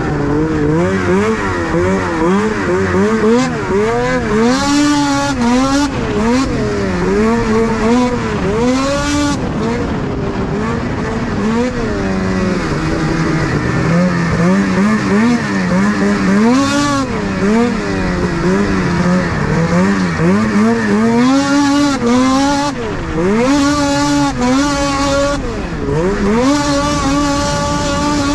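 Two-stroke 600 race snowmobile engine revving hard and falling off over and over as it is ridden around a track, the pitch swooping up and down every second or so. A short dip near three-quarters of the way through.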